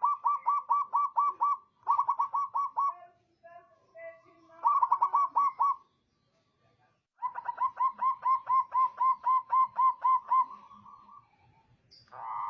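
Zebra dove (perkutut) cooing in runs of rapid, evenly repeated notes, about five a second. There are four bouts with short pauses between them, and the last is the longest at about three seconds.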